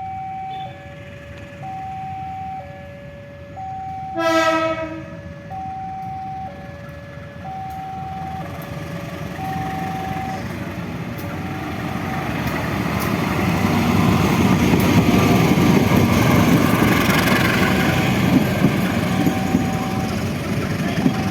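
Level-crossing warning alarm alternating between two tones, with a short train horn blast about four seconds in. From about eight seconds a train approaches and passes, its running noise and wheel clatter building to a peak in the second half while the alarm goes on.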